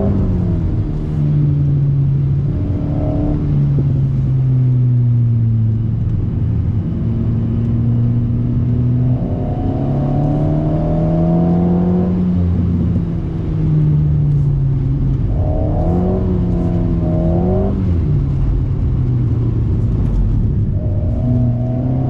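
Alpine A110's turbocharged 1.8-litre four-cylinder through a BDA Racing Track Evo stainless exhaust, heard from inside the cabin on a lap. The engine note rises and falls again and again with throttle and gear changes: a long climb near the middle, then a wavering, uneven stretch about two thirds of the way in.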